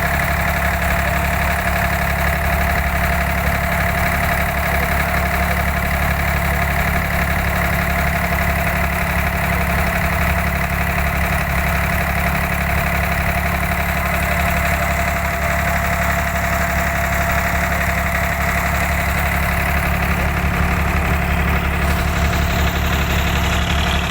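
Boat engine running steadily: an unbroken low hum with a constant steady tone over it.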